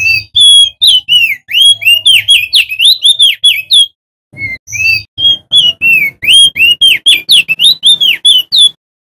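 Male opior jambul (prenjak daun), a white-eye, singing a fast, loud run of short whistled notes that slide up and down, in two phrases with a short break about four seconds in.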